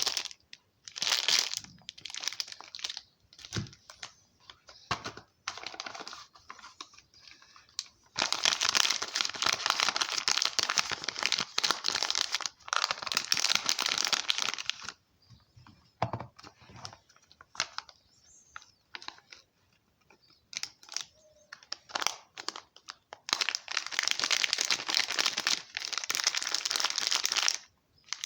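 Soap wrappers being crinkled and torn open as bars of soap are unpacked, in long stretches of dense crackling with a few quiet pauses between them.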